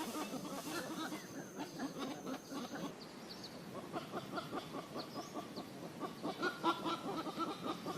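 Birds calling: fast runs of short clucking notes with thin, high chirps over them, and a thin steady high whistle in the first few seconds.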